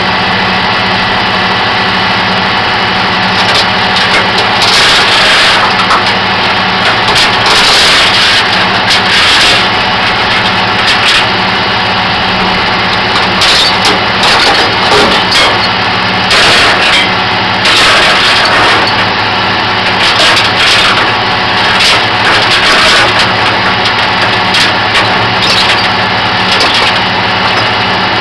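Flatbed tow truck's engine idling steadily. From about four seconds in, short bursts of noise come and go over it.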